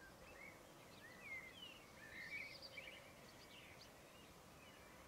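Faint birdsong: many short chirps and whistles from several birds over a soft background hiss.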